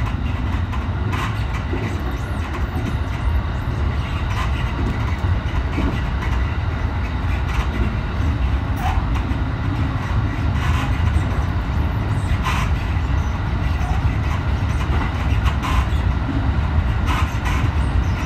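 Electric commuter train running along the line, heard from inside the front car: a steady low rumble with occasional sharp clicks from the wheels on the track.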